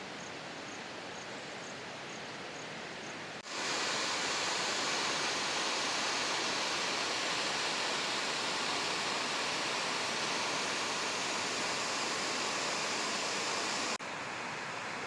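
Steady rushing of a waterfall, growing louder at a sudden cut about three and a half seconds in and dropping back near the end. In the first part a faint high ticking repeats about two to three times a second.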